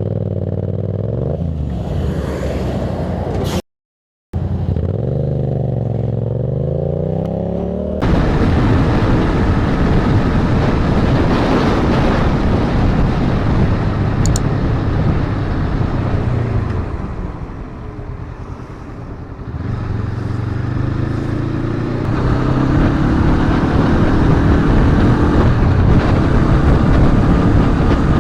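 Motorcycle engines running and revving, the pitch rising and falling, with a brief cut to silence a few seconds in. From about eight seconds on, heavy wind rush on the microphone largely covers the engine, and near the end an engine note rises again.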